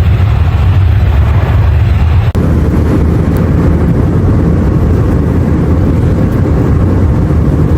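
Steady low roar of an Airbus A321's cabin in flight, engine and airflow noise strongest in the low end. It breaks off for a moment a little over two seconds in, then carries on.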